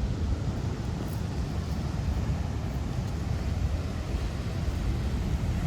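Heavy storm surf breaking against the coast with wind buffeting the microphone: a steady low rumble with no separate events.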